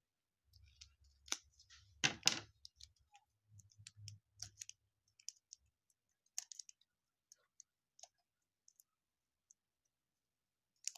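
Scattered small clicks and crinkles of fingers picking at a tightly sealed baseball card pack wrapper, trying to tear it open, with a louder cluster about two seconds in and some low handling bumps in the first half.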